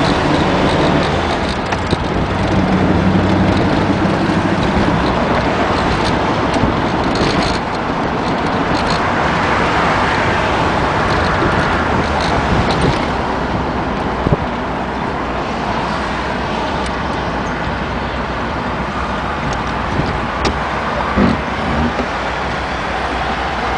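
Car driving with steady engine and road noise, likely the 1955 Ford Thunderbird. There are a few light knocks near the end.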